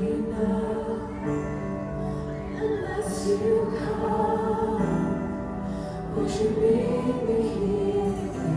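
Worship song: voices singing held notes over instrumental accompaniment.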